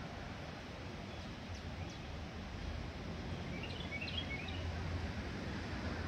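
Outdoor ambience with a steady low rumble. A few short bird chirps come in a brief cluster around the middle, after two faint high chirps a little earlier.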